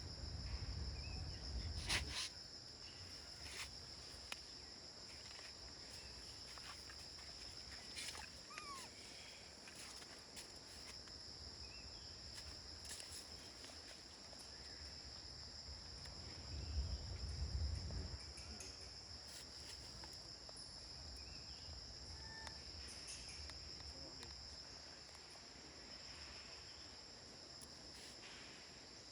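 Steady high-pitched insect chorus droning without a break, with a low rumble in the first two seconds and again about seventeen seconds in, and a few faint clicks.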